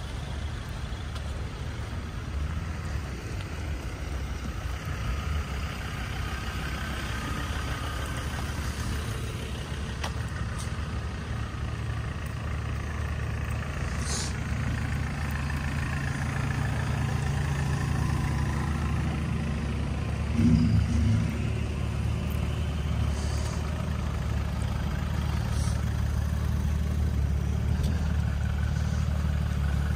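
Engines of queued road vehicles idling, a steady low drone that grows gradually louder, with a brief knock about twenty seconds in.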